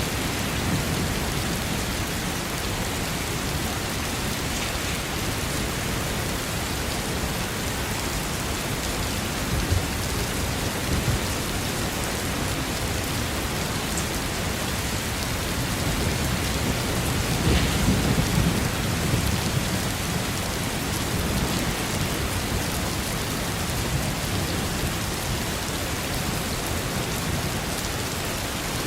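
Steady, heavy rain falling, with a low roll of thunder about two-thirds of the way through.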